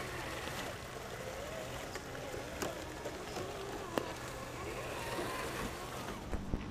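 Traxxas TRX-4 RC crawler's electric motor whining, its pitch gliding up and down as the throttle changes, with a few sharp clicks.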